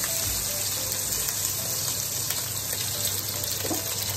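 Onion and green chillies sizzling steadily in hot oil in a non-stick wok.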